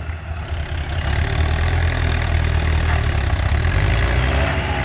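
Heavy diesel engine running steadily, growing louder about a second in and then holding.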